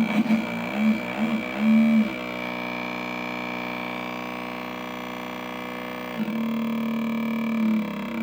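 Homemade two-oscillator electronic motorcycle sound generator buzzing out an imitation engine note: it warbles for about two seconds, settles into a steady buzz, then jumps back louder about six seconds in and starts to wobble again near the end.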